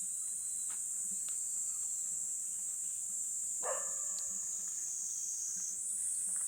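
Steady high-pitched chorus of crickets and other night insects, with a single dog bark about halfway through.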